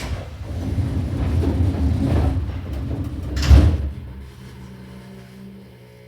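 Pneumatic sliding doors of a Seibu New 2000 series commuter train closing at departure: a sharp bang at the start, a few seconds of rumbling, and a second thump about three and a half seconds in. After that, a quieter steady hum of the stopped train.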